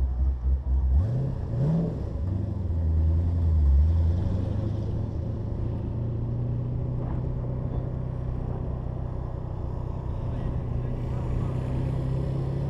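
Twin-turbocharged 2010 Camaro SS V8 accelerating hard down the drag strip. Its revs climb steeply about a second in and fall back at each of two upshifts, then settle into a steady drone that rises slowly in pitch.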